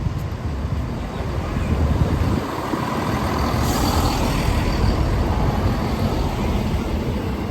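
Diesel passenger train rumbling over the level crossing, with a short hiss of air about three and a half seconds in.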